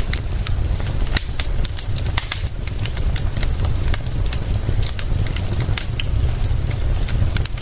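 Wood fire crackling, with frequent sharp pops and snaps, over a steady deep low rumble and an even hiss of rain.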